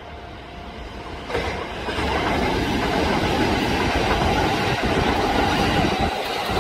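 Kintetsu limited express electric train passing close by: the sound of its wheels on the rails swells suddenly about a second and a half in and then holds loud and steady, with a few clacks of the wheels over rail joints.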